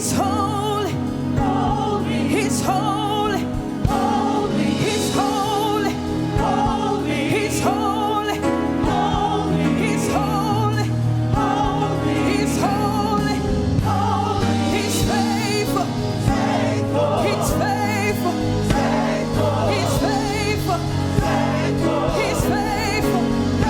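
Gospel worship song: voices singing with vibrato over sustained bass and keyboard backing, with regular cymbal strokes.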